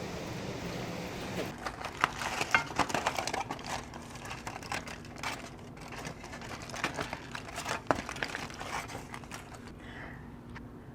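Packaging crinkling and rustling as it is handled, a dense run of crackles starting about a second and a half in, over a steady low hum.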